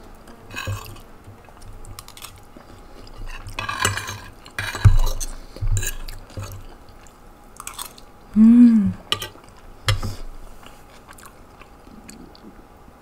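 Close-miked mouth sounds of a person eating soft fish curry and rice: wet chewing with scattered lip smacks and clicks, and a short hummed "mmm" about two-thirds of the way through.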